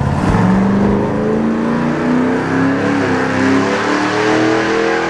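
A car engine under load, its pitch stepping up just after the start and then climbing steadily as it accelerates.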